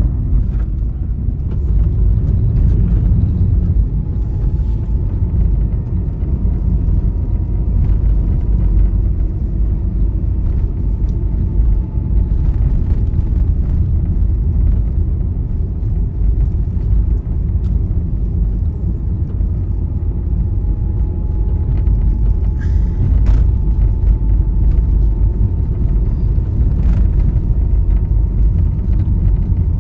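Steady low rumble of a vehicle travelling at speed on a highway, with a faint, steady whine above it and a few light clicks.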